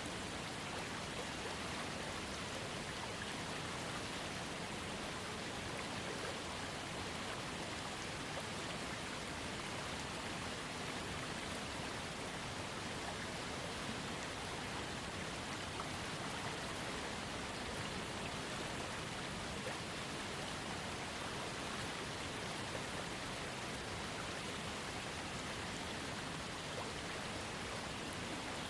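Steady rush of a small waterfall fed by a trickling creek, an even splashing hiss with no change.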